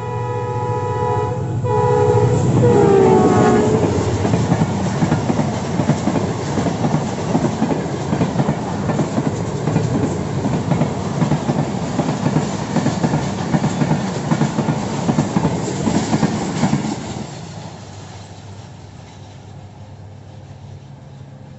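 Express passenger train passing at speed. The diesel locomotive's multi-tone air horn sounds, and a second blast drops in pitch as the locomotive goes by. Then comes the steady rumble and clickety-clack of the coaches' wheels over rail joints, which falls away about seventeen seconds in as the train recedes.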